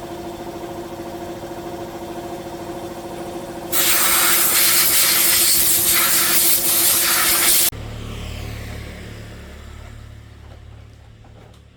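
A machine runs with a steady pitched hum. About four seconds in, a loud spraying hiss starts and lasts about four seconds before cutting off suddenly. A low hum follows and slowly fades away.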